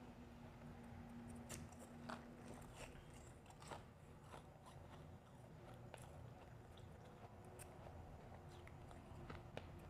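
Faint, irregular crisp crunches of refrozen powdery ice being chewed in big bites.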